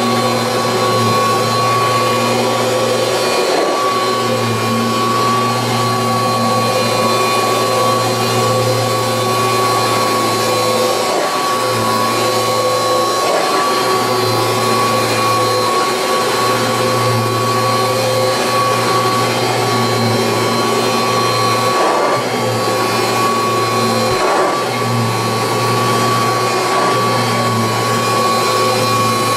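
1986 Kirby Heritage 2 upright vacuum cleaner running steadily with a high motor whine over a rush of air, dipping briefly several times.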